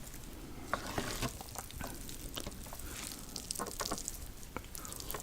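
Close-miked wet sounds of spicy, sauce-coated Korean noodles being mixed and eaten: a run of sticky crackles and many small clicks.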